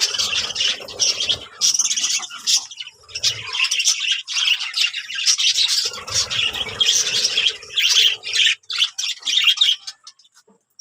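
Birds chirping and calling in a busy, overlapping chatter that stops shortly before the end.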